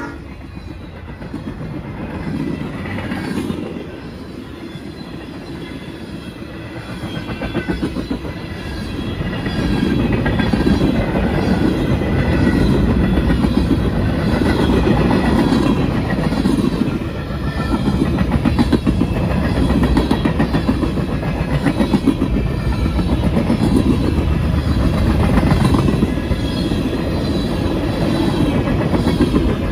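Long freight train rolling past close by: a steady heavy rumble of the cars with the rhythmic clickety-clack of wheels over rail joints. It grows louder about a third of the way in and stays loud.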